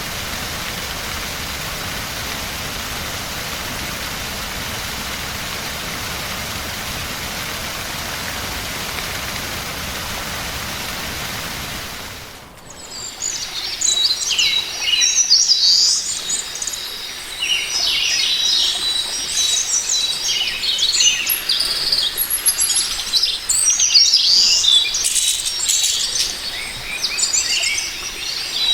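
Steady rushing of water for about twelve seconds, then it fades out and gives way to a chorus of small songbirds singing and chirping busily. A thin, steady high note runs under the birdsong.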